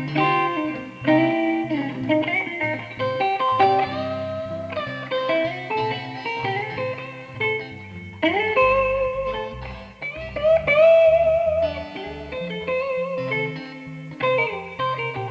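Electric guitar playing a bluesy lead line, with notes bent upward and one long bent note held with vibrato, over lower notes stepping along underneath.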